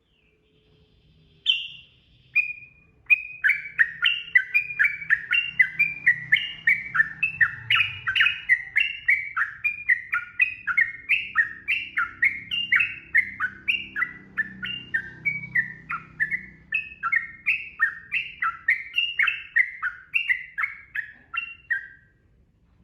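Yellow-vented bulbul (trucukan) singing: a single call, then a long, fast run of bubbly sweeping notes, about two or three a second, that stops near the end.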